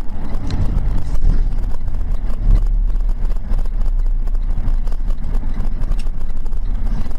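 Motor vehicle driving: a steady low engine and road rumble, with a few faint knocks.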